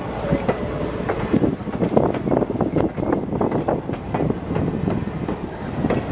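Passenger train coaches rolling past close by, their steel wheels clacking and knocking irregularly on the rails over a steady low rumble.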